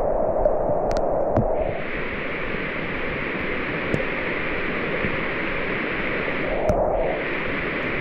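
Steady rain falling, with a few sharp drip ticks. A higher hiss comes in about a second and a half in, breaks off briefly near seven seconds, then resumes.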